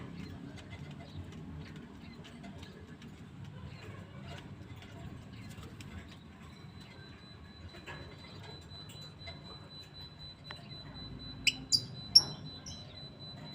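Lovebirds: faint scattered clicks, then three short, sharp, high-pitched chirps in quick succession near the end.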